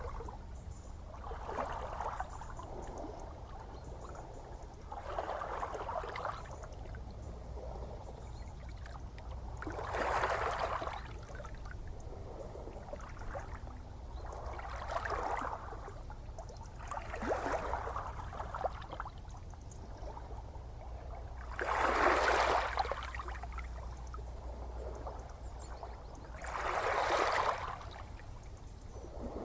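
Gentle ocean waves lapping: a soft wash of water every few seconds over a steady low rumble, with the strongest washes about ten and twenty-two seconds in and near the end.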